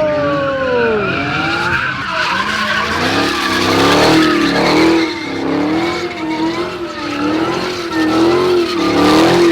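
A car doing a burnout or donuts: tyres squealing under a hard-revving engine, the squeal wavering up and down about once a second as it spins.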